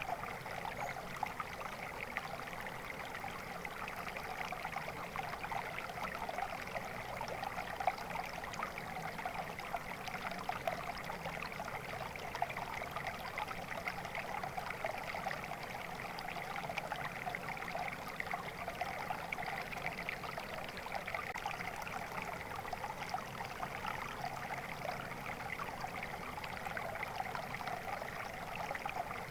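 A stream of water flowing and trickling steadily, an even babbling without pauses or changes.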